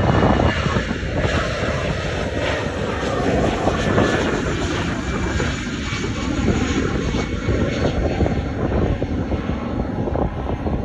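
Airbus A320 airliner's jet engines at takeoff power: a loud, steady rush of engine noise with a faint high whine.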